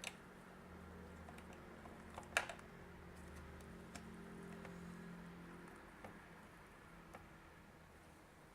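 Small clicks and taps of a battery being fitted into a digital multimeter's battery compartment, one sharper click about two and a half seconds in, over a faint steady hum.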